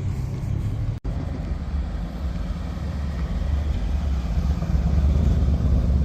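A car engine running with a steady low rumble. The sound cuts out for an instant about a second in.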